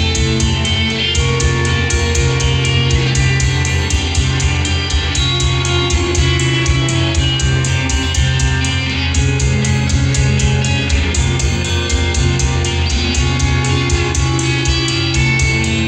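Loud live heavy-metal band music without vocals: guitars holding low notes over fast, steady drumming.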